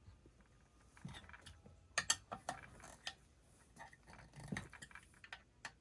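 Light metallic clicks and taps of small chainsaw parts being handled, as the ignition module is adjusted against the flywheel: a quick cluster of sharp clicks about two seconds in and a duller knock near the end.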